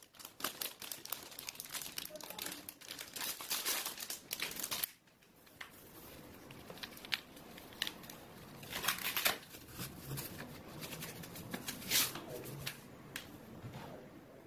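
Crinkling and rustling of material being handled: dense crackling for about five seconds, then a sudden drop and scattered sharper crinkles.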